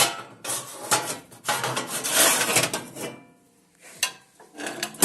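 Metal ash pan of a cast-iron stove scraping as it slides in its compartment, with a clunk at the start and another near the end.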